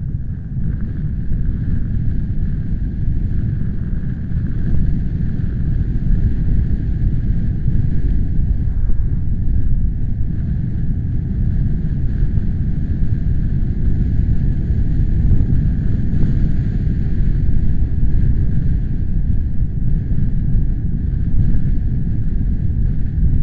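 Wind buffeting the microphone: a loud, low, gusting rumble that swells and eases irregularly.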